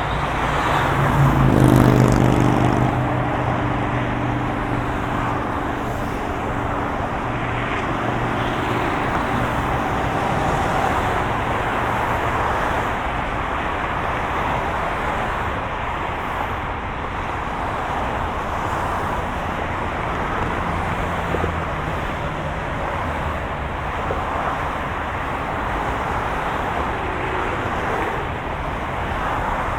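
Steady road noise of a moving car: an even rush of tyre and wind noise over a low engine hum. A deeper engine drone swells briefly about two seconds in, then fades back into the hum.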